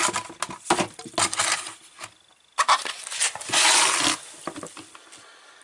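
Knocks and clatter of a container being handled and set down, then about half a second of rushing noise: a small amount of water draining out of the washing machine's drain hose into the container, tailing off quickly.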